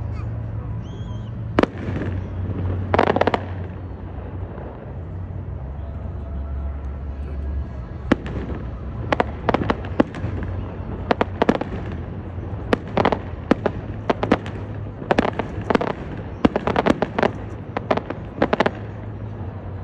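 Aerial fireworks shells bursting: two sharp bangs in the first few seconds, then a fast barrage of bangs, several a second at times, through the second half.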